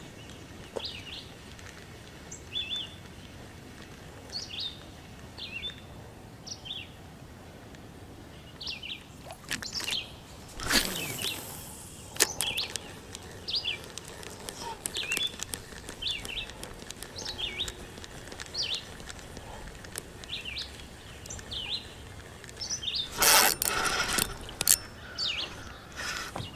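Birds chirping nearby, short high calls repeated every second or so. Twice, about ten seconds in and again near the end, a louder rush of handling noise from the fishing rod and spinning reel.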